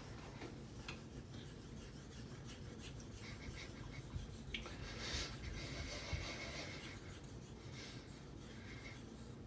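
Faint scraping rub of a straight razor blade, its spine taped, being stroked back and forth across a wet 5,000-grit honing stone carrying slurry.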